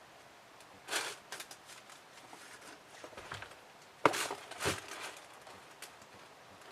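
Scattered rustling and handling noises as the sneakers are handled, with a sharp knock just after four seconds in.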